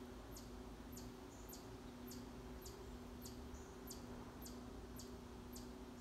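Faint bird calls: a sharp, high note repeated over and over, nearly twice a second, each one dropping steeply in pitch. A low steady hum runs underneath.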